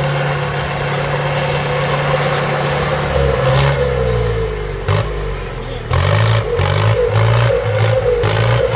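Engine of a heavy vehicle running under load. Its note shifts about three seconds in, and it gets louder about six seconds in, with a rhythmic pulse about two or three times a second.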